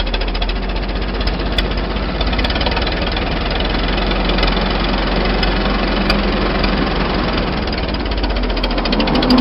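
1926 Fordson Model F tractor's four-cylinder engine running under way with rapid, steady firing, along with the drivetrain of its worm-gear rear end. A humming tone joins near the end.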